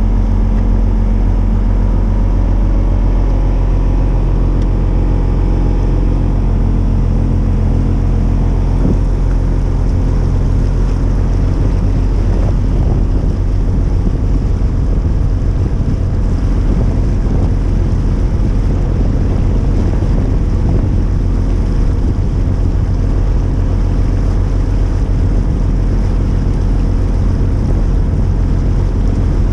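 Inboard diesel engine of a 1989 Hunter 40 Legend sailboat running steadily at cruising speed, with rushing water and wind noise on the microphone.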